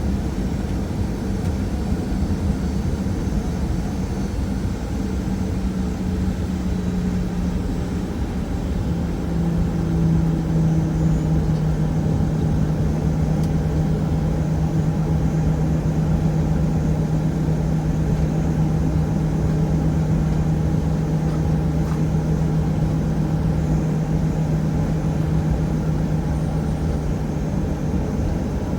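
Boeing 737-800's CFM56 engines running at low taxi power, heard inside the cabin as a steady rumble with a droning hum. The hum drops slightly in pitch about eight seconds in, then holds steady as the sound gets a little louder.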